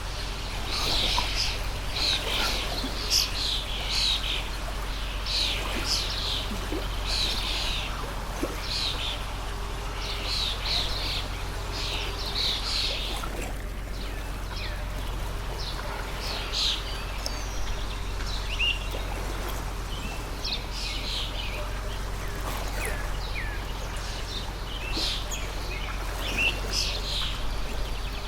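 Songbirds chirping in many short, rapid calls over the steady rush of a flowing stream.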